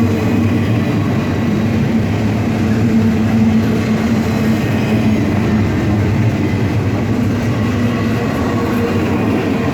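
Intermodal freight train passing at close range: a loud, steady sound of wheels on rail, with a steady hum running through it.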